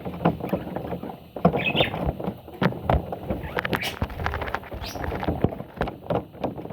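Parrot chicks shuffling in the nest, making irregular scratching and rustling clicks, with a few short high squeaks.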